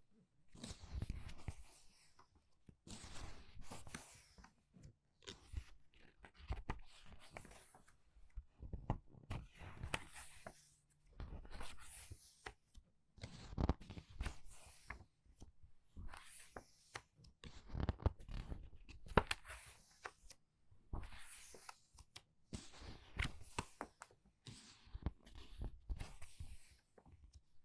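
Pages of a book being turned quickly one after another, each turn a brief papery rustle, coming every second or two.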